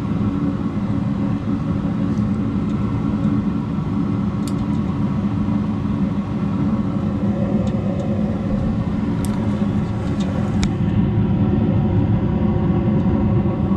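Steady low machine hum with a rumble underneath and a few faint clicks.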